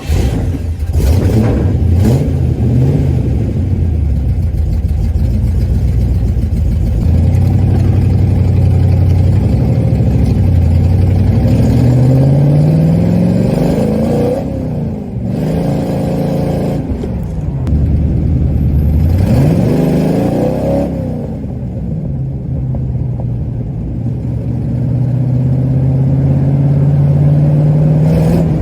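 Car engine and side-pipe exhaust running on the road, the pitch climbing under acceleration and dropping back twice around the middle, then holding steady at a cruise.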